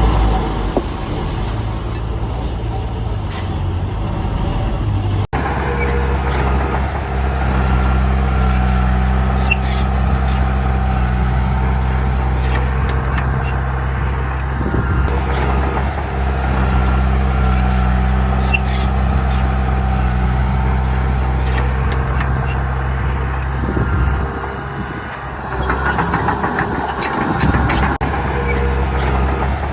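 Heavy diesel engine of earthmoving machinery running steadily under load, with scattered metallic clicks and clanks. There is a sudden break about five seconds in and a brief hiss near the end.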